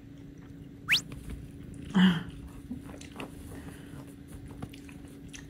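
Soft chewing with many small clicks over a faint steady hum. A quick rising whistle-like sweep comes about a second in, and a brief voice-like sound comes about two seconds in.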